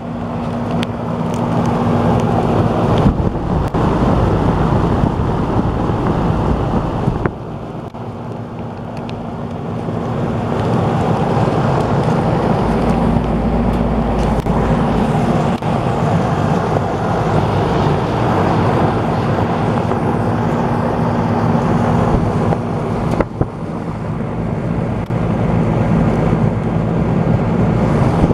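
American Standard heat pump running: a steady rush of fan air over a low, even hum.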